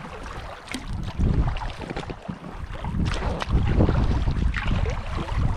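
Wind buffeting the microphone in gusts, with short splashes from kayak paddle strokes in the water.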